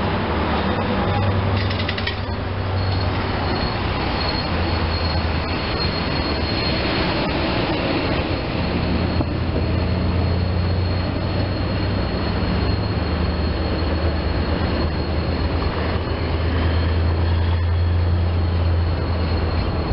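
Work train cars rolling past on the rails: a steady rumble of wheels on track with a low hum underneath. A thin, steady high-pitched wheel squeal sets in about three seconds in and runs on as the last car goes by.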